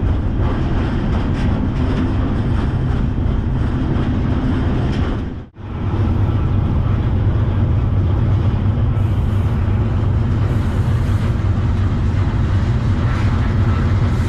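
Freight train rolling along, heard from aboard: a steady loud rumble of wheels on rail. It cuts out briefly about five and a half seconds in, then carries on.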